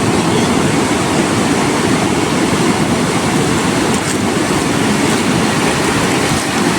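Steady, loud rushing of wind and ocean surf on a beach, with the wind buffeting the phone's microphone.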